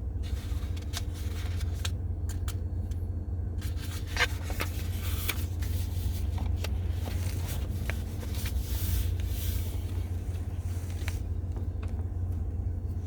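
Steady low rumble with scattered clicks and light knocks; no speech.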